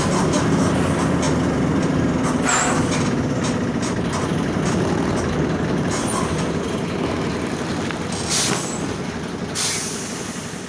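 Mercedes-Benz OF 1722M bus's OM 924LA 4.8-litre four-cylinder diesel engine running steadily, slowly getting quieter. Two short hisses of air sound near the end.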